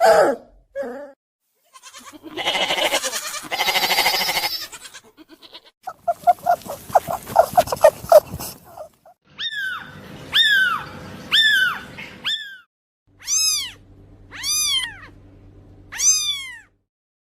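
A changing series of animal calls: a harsh, noisy cry, then a rapid chattering run, then four short calls that fall in pitch, and three short arched cries near the end.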